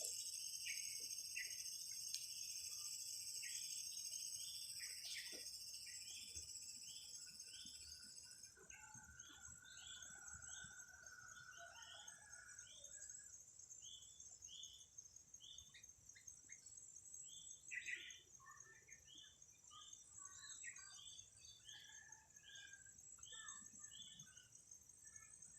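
Sooty-headed bulbul calling with short, quick notes repeated over and over, over a steady high insect drone that thins out about a third of the way in.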